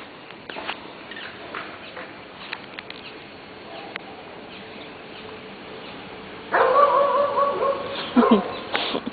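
A dog's drawn-out whining howl, held steady for about a second and a half starting about six and a half seconds in and ending in a short falling note; before it, only faint scattered ticks and rustles.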